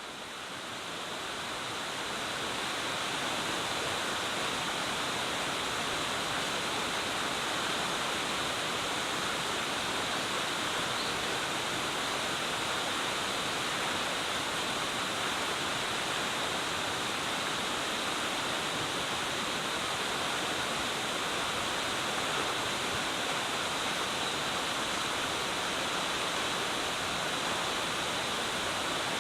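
Sakuradaki waterfall pouring down, a steady, even rush of falling water that fades up over the first couple of seconds and then holds level.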